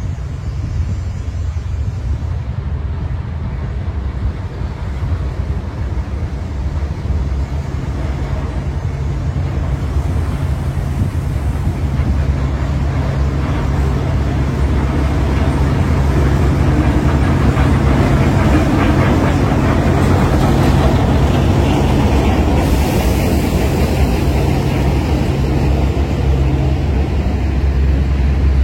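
Steady low rumble of a running vehicle, with a rushing noise that swells up partway through and stays loud.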